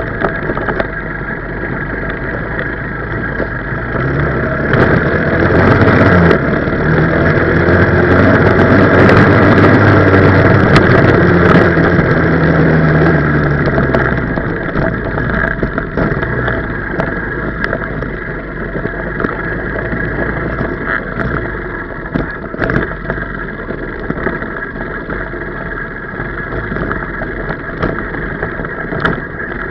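125cc four-stroke pit bike engine running under way, the revs climbing about four seconds in and held high for several seconds before easing back to a lower, steady running speed.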